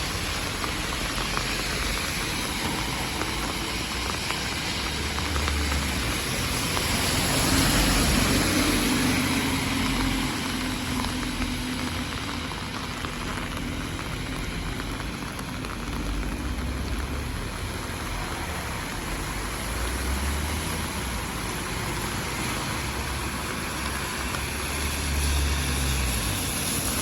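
Steady rain hiss on a city street, with traffic running on the wet road; one vehicle passes loudest about eight seconds in.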